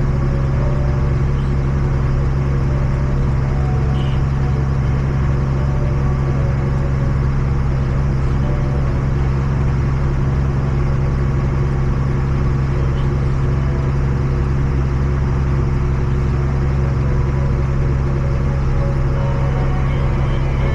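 Tractor engine running at a steady speed: a constant low drone that does not change.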